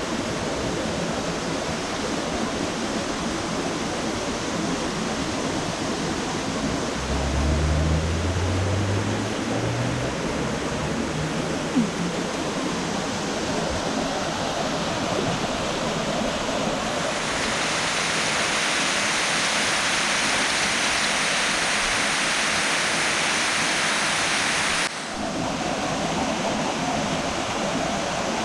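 Waterfall: water rushing steadily, growing louder and hissier about two-thirds of the way through, with a short drop shortly before the end. A few low rumbles come briefly in the first third.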